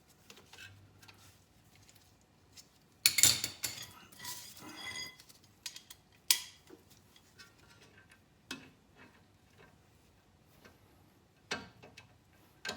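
Metal hand tools clanking and clinking, with a short metallic ring after the loudest knock just after three seconds in, then scattered single clinks.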